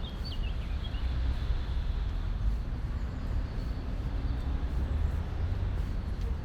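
A steady low rumble, with a few short bird chirps in the first second.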